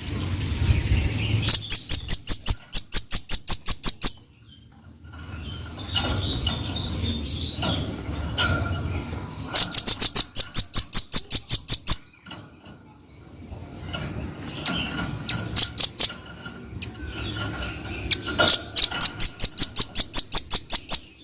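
Velvet-fronted nuthatch giving three bursts of rapid, sharp, high notes, about five or six a second, each run lasting two to three seconds, with fainter scattered chips in between.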